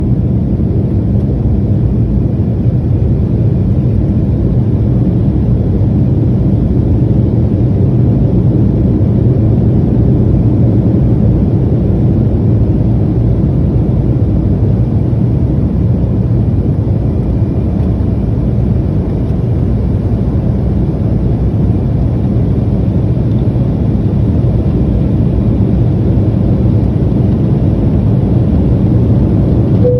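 Steady in-flight airliner cabin noise: the even, low rush of the jet engines and airflow, unchanging throughout.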